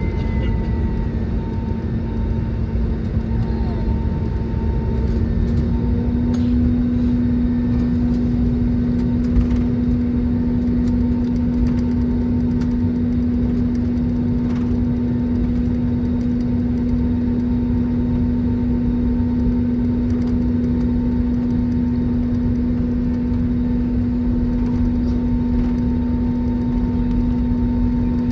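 Cabin sound of an Airbus A320neo with CFM LEAP-1A engines taxiing at low power after landing: a steady engine hum over a low rumble, its pitch stepping up slightly about six seconds in.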